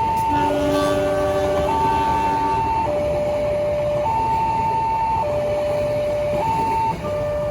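Railway level-crossing warning siren sounding a two-tone alarm, high and low notes alternating about every second, over a steady rumble. From about a quarter second in to two and a half seconds, a second, lower-pitched tone sounds along with it.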